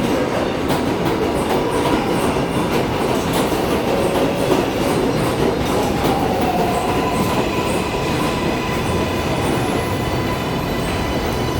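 New York City subway train running through the station, its wheels clicking over rail joints amid a steady rumble. Through the second half a steady electric whine runs alongside.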